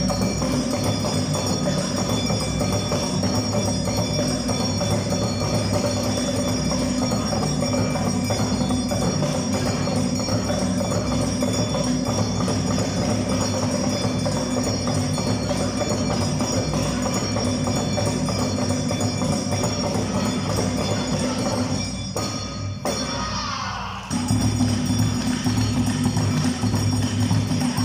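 Live Awa Odori festival music from a percussion ensemble, with a ringing metal hand gong and drums over sustained tones. About 22 seconds in, the low drum part drops out and the sound thins for about two seconds, then the full ensemble comes back.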